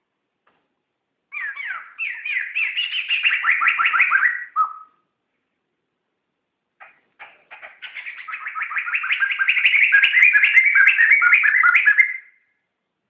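Poksay (laughingthrush) singing: two bouts of fast, repeated chattering notes, the second longer and swelling in loudness before stopping short near the end.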